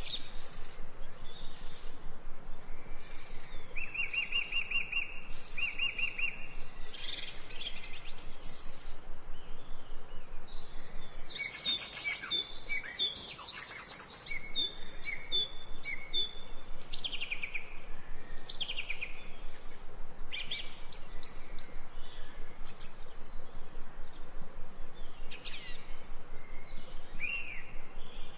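Ambient recording of several songbirds chirping and trilling, with short whistled calls overlapping throughout and a busier flurry of calls about midway.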